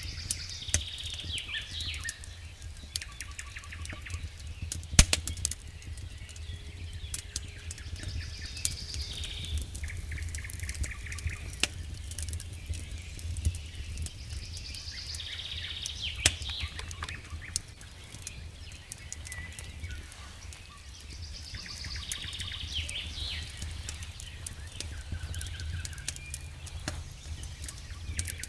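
Birds singing short phrases every several seconds over the crackle of a wood campfire, with one sharp snap about five seconds in and a steady low rumble underneath.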